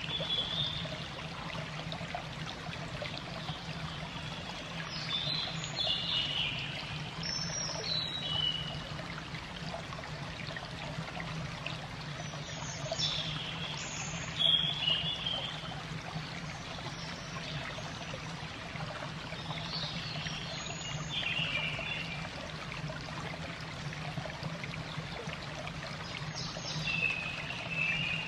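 Steady trickle of running water with a low, constant hum beneath it, and a bird calling about six times through it, each call a quick downward-sweeping note.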